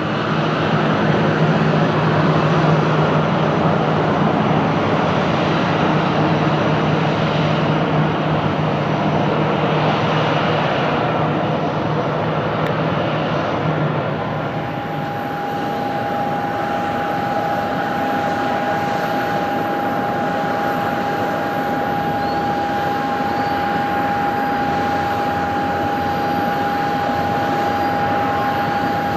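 Airbus A320's jet engines running, a steady loud roar with a low hum. About halfway in the sound changes and a steady high-pitched whine rises above the roar for the rest of the time.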